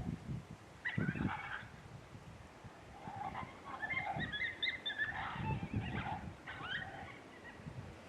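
Coyote fight sound played from an electronic predator caller: high, broken yips and squeals, a short burst about a second in, then a busy run through the middle. Gusty wind buffets the microphone underneath.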